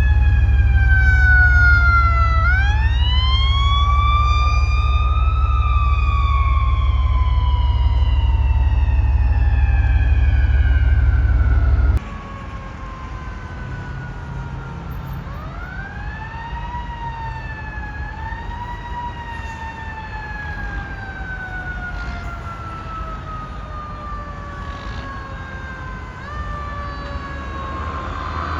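A siren climbs quickly in pitch and then slowly falls over several seconds, twice, with a steady low engine drone beneath it. The drone cuts off suddenly about twelve seconds in, and the siren carries on quieter.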